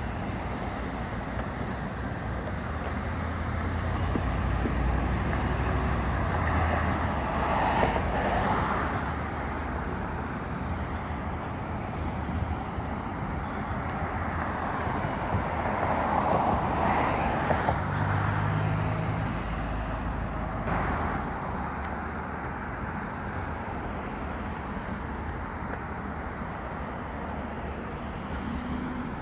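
Road traffic: cars passing with a steady hum of tyres and engines that swells twice as vehicles go by and fades again.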